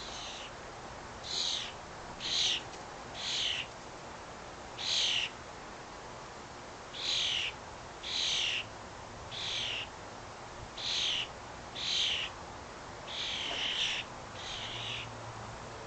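A bird calling repeatedly: about a dozen short, high calls, each about half a second long, coming every second or two at an uneven pace.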